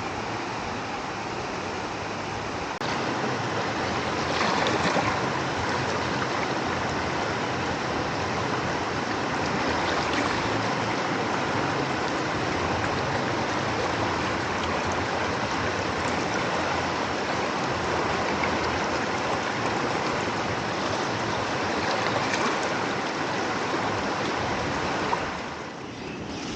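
A stream rushing steadily, a little louder about three seconds in.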